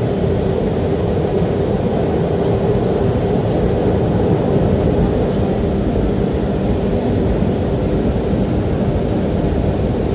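Cabin noise of a Boeing 737-300 on the ground with its CFM56-3 jet engines at low power before takeoff: a steady rumble with a steady hum, no rise in power.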